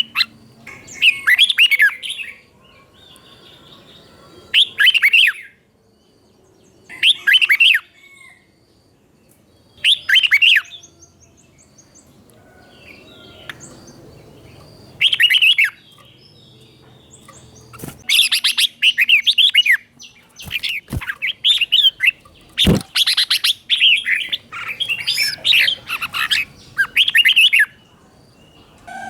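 Red-whiskered bulbul singing short, quick warbled phrases of rising and falling notes. The phrases come a few seconds apart at first, then follow one another rapidly through the second half. Two sharp clicks are heard midway through the fast run.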